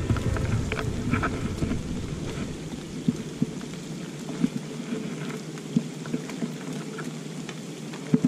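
Light rain falling around a wooden pier over the water: a steady patter with scattered drop-like ticks, and a low rumble in the first second.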